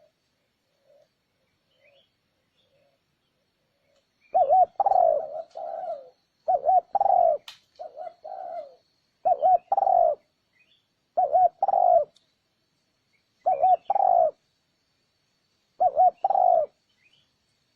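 Spotted dove cooing: a few faint soft coos, then from about four seconds in six loud phrases about two seconds apart, each a quick double note followed by a longer coo. It is a lure call of the kind trappers play to draw wild doves.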